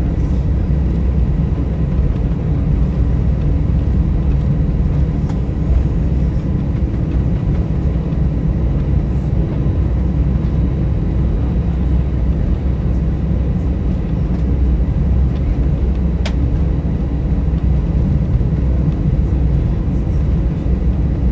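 Steady low cabin rumble of an Airbus A320 with its jet engines at idle while taxiing, with a faint steady whine above it. A single sharp click about sixteen seconds in.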